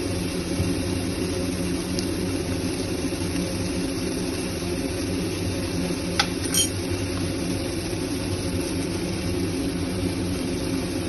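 Steady low mechanical hum of a running kitchen appliance, with two light clinks of a utensil on the cooking pot about six seconds in.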